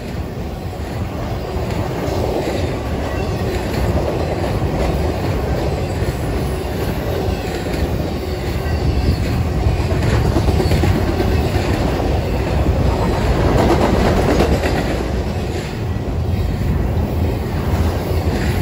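Intermodal freight train's cars rolling past close by: a steady rumble and clatter of steel wheels on rail as trailer-carrying flatcars and double-stack container well cars go by, swelling somewhat in the middle.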